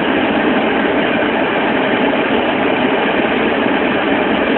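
Steady engine and road noise heard inside a car's cabin as it drives through snow, an even rushing sound with no breaks.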